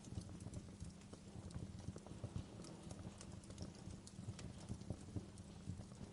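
Wood fire burning in a fireplace: a steady low rumble of flames with irregular small crackles and pops throughout.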